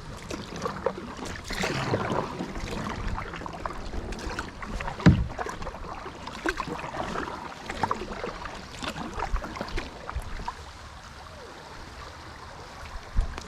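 Kayak paddling: irregular paddle strokes splashing in the river, with small knocks on the hull and one louder thump about five seconds in.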